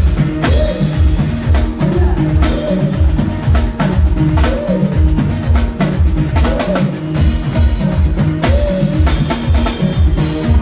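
Live band playing an instrumental groove: a drum kit with bass drum and snare hits over a steady, repeating bass line, with a short repeated figure from another instrument about once a second.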